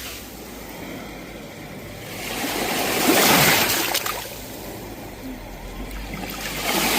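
Sea waves breaking on the shore: a wave swells and crashes about three seconds in, then fades, and the next one starts to build near the end.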